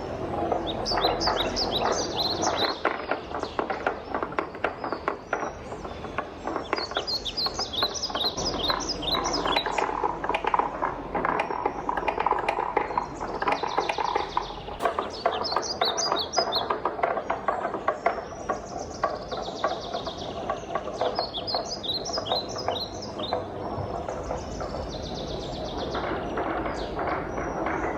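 Wooden balls rolling and clattering down a wooden marble-run track: a continuous dense rattle of small knocks, broken by quick runs of bright, high ticking notes as the balls bounce and drop.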